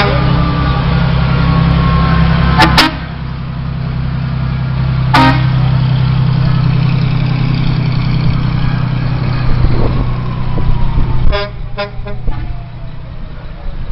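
Fire trucks giving several short horn toots, two close together, then one, then two more near the end, over the steady drone of a large engine, with a siren winding down faintly behind them.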